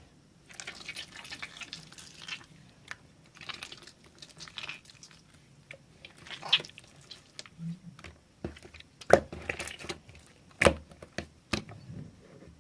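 Slime being squeezed and stretched by hand: wet, sticky crackles and clicks, with a few sharper pops in the second half.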